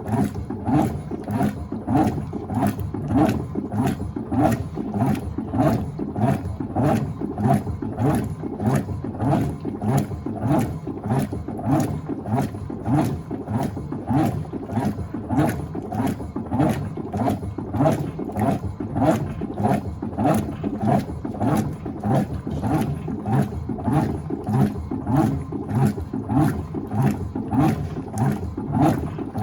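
Electrolux Turbo Acqua Jet LTA15 top-loading washing machine agitating a load in water, its agitator churning back and forth in an even rhythm of repeated sloshing strokes.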